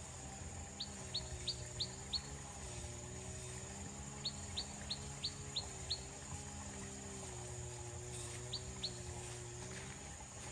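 A bird calling in three quick runs of short, sharp high chirps: about five notes near the start, six in the middle and two near the end. A low, steady, wavering tone runs underneath.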